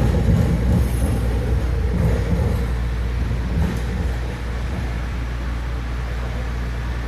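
AirTrain JFK car running along the guideway: a steady low rumble with a little hiss above it, easing slightly about four seconds in.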